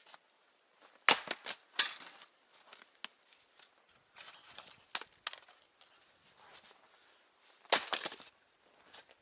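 Sharp wooden cracks and knocks in three short clusters: several about a second in, two near the middle and a quick run near the end.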